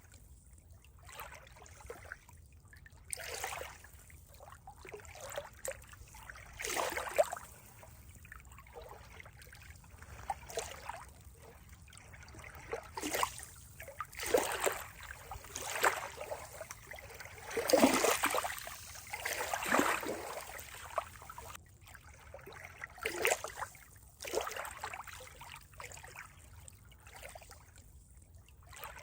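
Water trickling and splashing in uneven surges, a few louder splashes about two-thirds of the way through.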